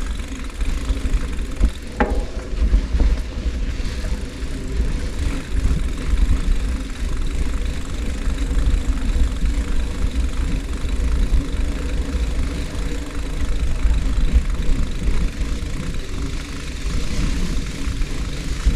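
Heavy, fluctuating wind rumble on the microphone of a moving bicycle, with tyre and road noise under it and one sharp click about two seconds in.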